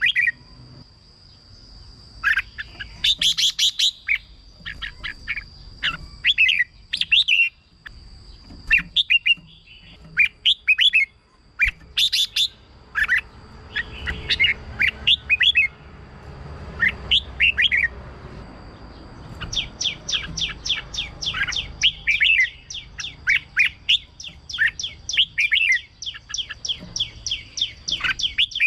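Red-whiskered bulbul singing: bursts of short, bright whistled phrases, then, about two-thirds of the way in, a long run of quick notes in fast succession.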